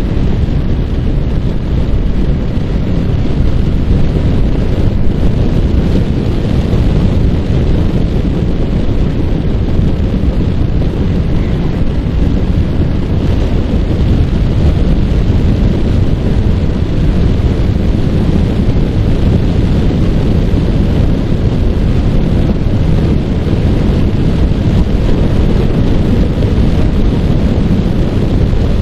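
Loud, steady wind buffeting on the microphone of a Yamaha R15 motorcycle at riding speed, with the bike's single-cylinder engine running underneath.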